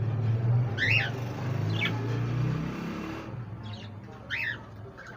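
Budgerigar chirps: three short, sharp calls about one, two and four and a half seconds in. A steady low hum runs underneath and stops about three seconds in.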